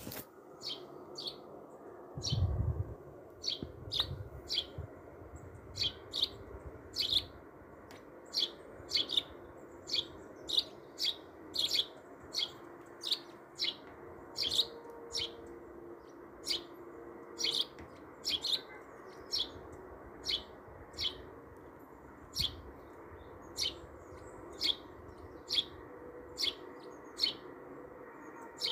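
A small bird chirping over and over, short high chirps about once or twice a second, over a steady low hiss. There is a low thump about two seconds in.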